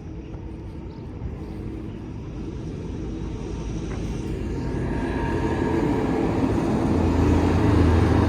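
Vehicle engine rumbling, growing steadily louder over several seconds from about three seconds in, as if drawing nearer.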